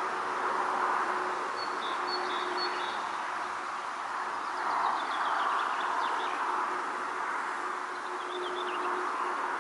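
Outdoor pond ambience: a steady rustling haze of wind that swells and eases, with three short bursts of small-bird chirps, high and brief.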